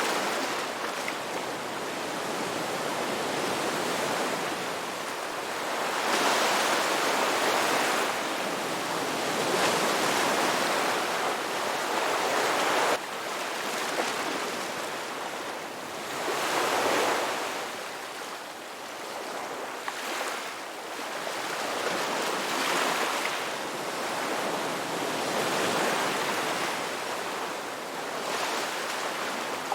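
Ocean surf: waves breaking and washing ashore, a rushing hiss that swells and fades every few seconds, with one sudden drop in level about halfway through.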